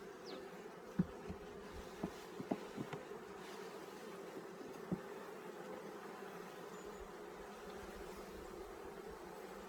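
Honeybees buzzing steadily around an opened hive, with several sharp knocks in the first five seconds, the loudest about a second in.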